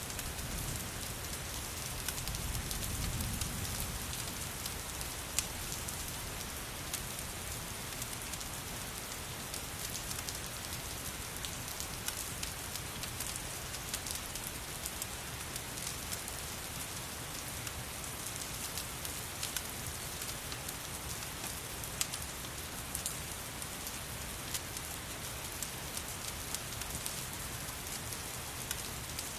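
Steady rain hiss mixed with the scattered sharp crackles and pops of a wood fire, with a brief low rumble two to three seconds in.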